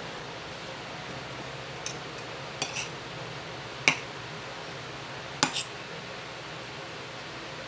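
Dishes and cutlery clinking: a handful of short, sharp clinks and taps spread over several seconds, over a steady background hiss.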